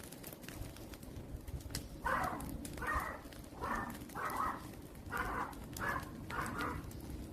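Garden wood fire crackling with scattered small pops. From about two seconds in, a bird calls seven times in a roughly even series.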